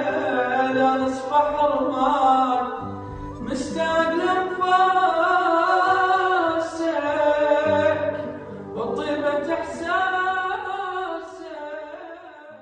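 A solo voice singing long, ornamented Arabic song lines over a low sustained instrumental accompaniment, fading out near the end.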